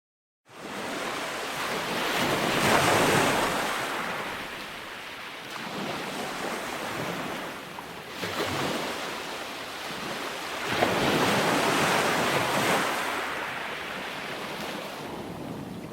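Calm ocean surf washing onto a sandy beach: a steady wash that swells and falls as waves break, two bigger breaks several seconds apart and a smaller one between. It fades in after about half a second of silence.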